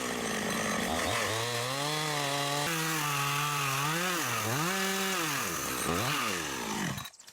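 Chainsaw cutting timber, its engine pitch dipping and climbing back several times, then cutting off abruptly near the end.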